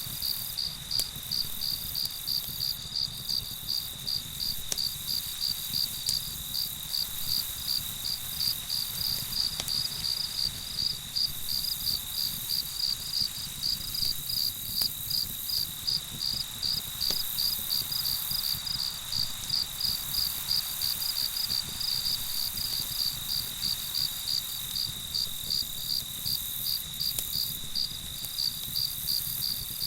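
Crickets chirping in a steady rhythm of about two high chirps a second over a continuous high trill, with a few faint campfire crackles.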